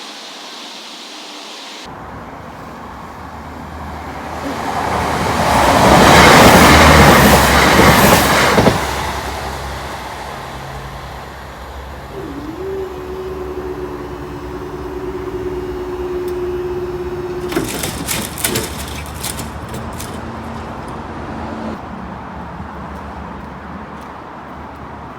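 Great Western Railway class 165 diesel multiple unit passing over the level crossing. Its rush of noise builds, is loudest about six to nine seconds in, then fades. Later a steady two-note tone sounds for about five seconds, followed by a few sharp clicks.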